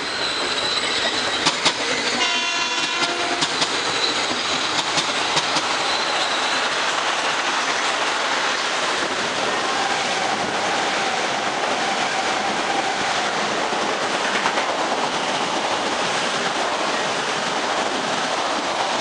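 Metro-North M8 electric multiple-unit train passing at speed along a station platform. A horn blast sounds about two seconds in, with wheels clicking over rail joints in the first seconds, then a steady rushing noise as the cars go by.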